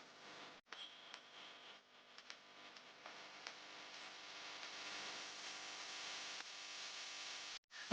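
Faint airport terminal ambience: a low, even hiss that slowly grows louder, with a few soft ticks and a brief high tone about a second in.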